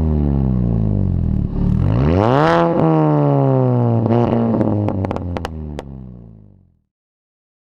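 Straight-piped car engine being revved: the revs fall away, jump up in a quick blip about two seconds in, then drop back with sharp pops and crackles from the exhaust, fading out near the end.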